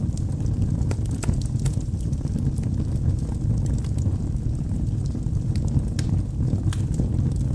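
Wood fire burning in a fireplace: a steady low rumble of flames with frequent sharp crackles and pops from the burning logs scattered throughout.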